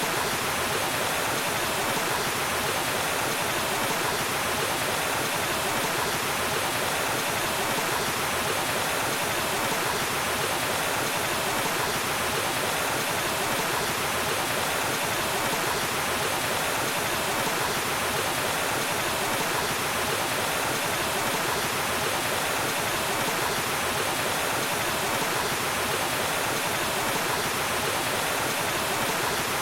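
Waterfall, water falling and rushing in a steady, unbroken roar of white noise.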